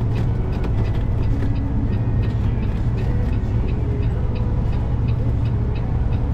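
Semi-truck engine and road noise heard inside the cab while driving: a steady low drone.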